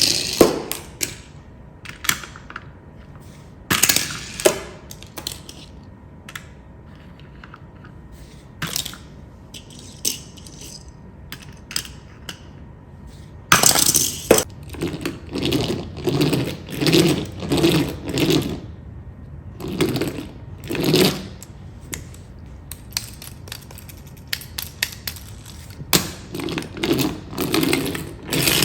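Irregular clattering of small hard objects: sharp clicks and knocks, coming thicker about halfway through and again near the end.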